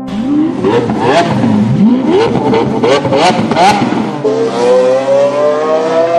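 Car engine sound effect over a steady ambient music drone: several quick revs, each rising in pitch, with sharp cracks between them. From about four seconds in comes one long, slow rise in pitch as it accelerates.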